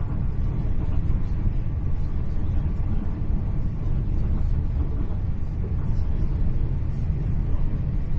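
Hitachi Class 800 Intercity Express train heard from inside a passenger coach while running: a steady low rumble of wheels on rail and running gear.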